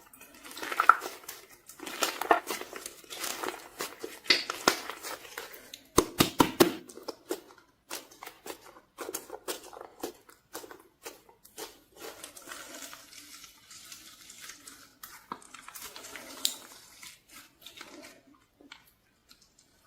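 Slime being squeezed and worked by hand: a run of wet clicks, pops and crackles, dense and loud for the first seven seconds or so, then sparser and quieter.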